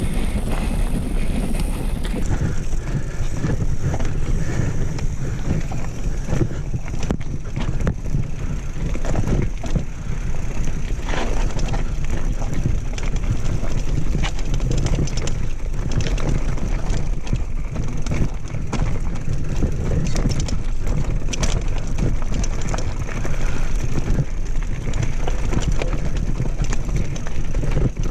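Mountain bike rolling over a rough dirt and rock trail: tyres crunching and the bike rattling with many small knocks, over a steady low rumble.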